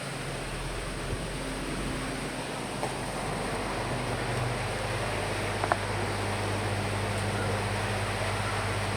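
Steady hiss of rain and wind with a low, even hum underneath, and a few faint ticks.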